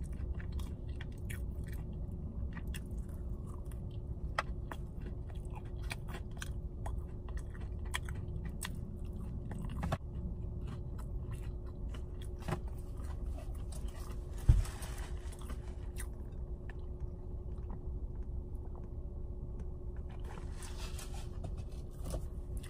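Close-up chewing of a piece of toasted bread, with many small mouth clicks over a steady low hum. One sharp thump about halfway through is the loudest sound, and there is brief rustling near the end.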